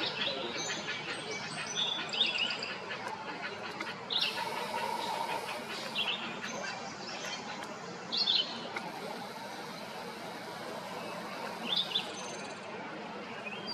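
Wild birds chirping: short, sharp high notes every second or two over a steady background hiss.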